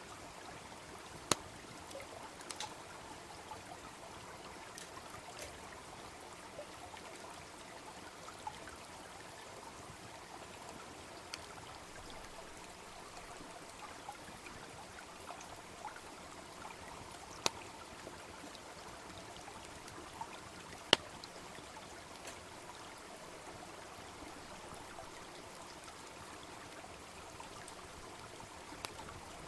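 Steady babble of a small brook with a wood fire crackling over it, giving a few sharp pops: one about a second in and two louder ones past the middle.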